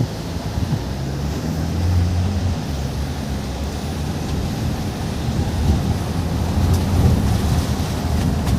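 A car's engine and road noise heard from inside the moving car: a steady low hum that rises and falls a little, under a rushing noise of wind and tyres.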